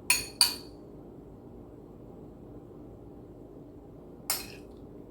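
A kitchen utensil clinking against a dish: two quick clinks close together, then one more about four seconds later, each ringing briefly.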